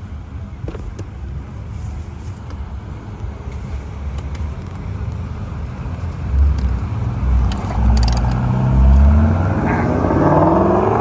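Road traffic: a low rumble, then about six seconds in a car's engine note comes in and climbs in pitch and loudness as the car approaches.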